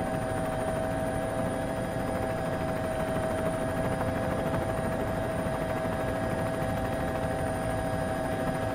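A steady mechanical drone with a constant whine, its pitch unchanging throughout.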